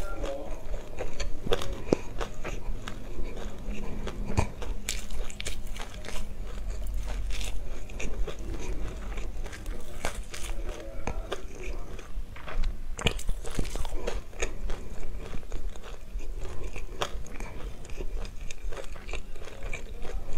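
Chewing a mouthful of raw black and white sesame seeds: a dense, continuous run of small crunches and crackles.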